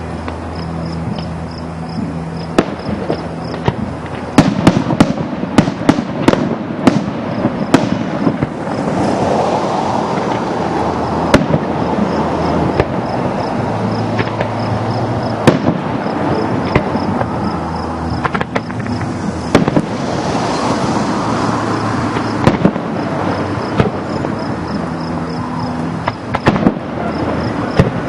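Fireworks display: sharp bangs come in a rapid cluster from about four seconds in, then crackling bursts follow, with further single bangs scattered to the end.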